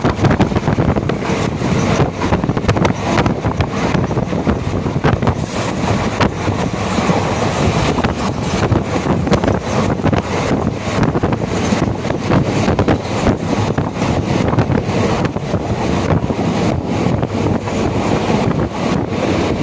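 Passenger train running along the track, its wheels rattling and knocking continuously, with wind buffeting the microphone.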